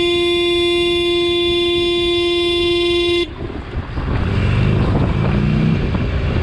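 A vehicle horn sounded in one long steady blast of about three seconds that cuts off suddenly. After it come wind rush and engine noise from riding.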